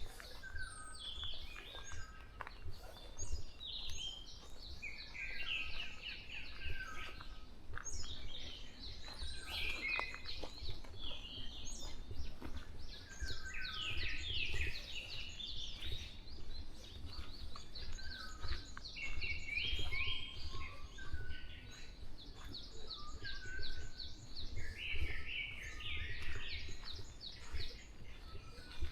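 Several wild birds singing and calling together in a forest dawn chorus: short chirps, trills and whistled phrases overlapping continuously, over a steady low rumble.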